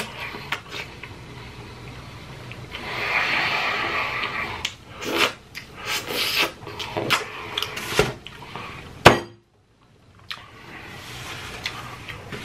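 Close-up chewing of a mouthful of fried chicken wings with blue cheese dressing: wet smacking and clicking mouth sounds, densest in the middle, with one loud click about nine seconds in before the sound briefly cuts out.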